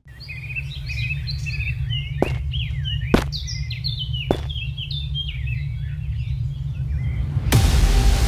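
Small birds chirping and tweeting over a steady low hum, with three sharp clicks about two, three and four seconds in. Near the end a loud, low rumbling noise swells in and drowns them out.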